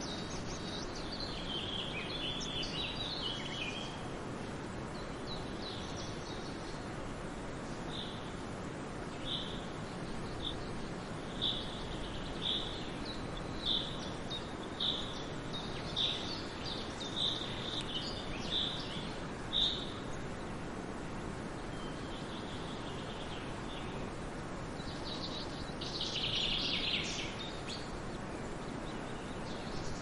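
Wild birds calling over a steady rushing background noise: scattered chirps in the first few seconds, then a run of about a dozen short, evenly spaced high notes from about eight to twenty seconds in, and a denser patch of chirping near the end.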